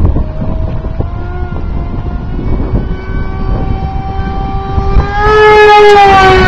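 Brushless electric motor and 6x4 propeller of a foam RC jet whining in flight. The whine grows loud about five seconds in as the plane passes close, then its pitch drops as it goes by. Wind rumbles on the microphone throughout.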